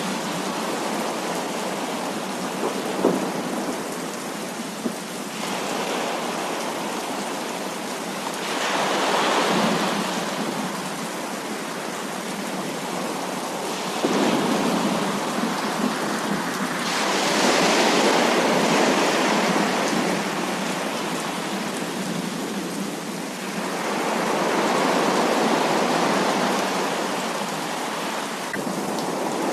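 Heavy rain pouring steadily, its hiss swelling louder three times: about a third of the way in, just past halfway and near the end. A few sharp drip-like ticks stand out.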